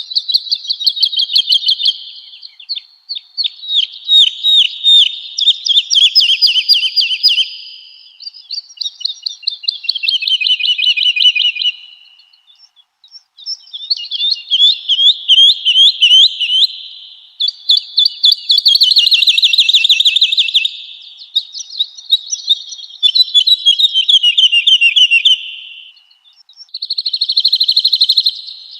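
Woodlark singing: a string of phrases of rapid, trilled repeated notes, each a few seconds long with short pauses between. Several phrases slide down in pitch as they go.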